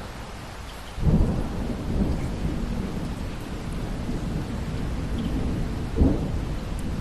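Steady rain with thunder: a rumble breaks in suddenly about a second in and rolls on, with a sharper clap about six seconds in.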